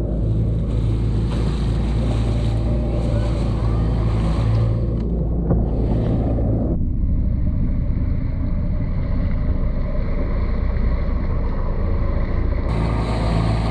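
Two-stroke Johnson Sea Horse outboard motor running steadily under wind noise on the microphone and the wash of water. About halfway through, the wind and water hiss drops away, leaving mostly the low motor hum, and it returns near the end.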